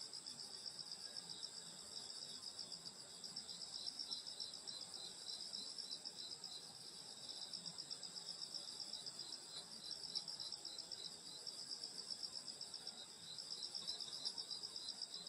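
Night chorus of crickets and other grass insects: a steady high trill with a pulsing layer beneath it. Through the middle, another insect chirps in an even beat, about two or three times a second.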